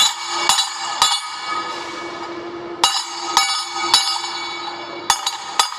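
Hammer blows on a laser-welded 6mm carbon steel plate, testing the strength of the weld. Each strike clangs and rings on. There are two sets of three blows about half a second apart, then quicker strikes near the end.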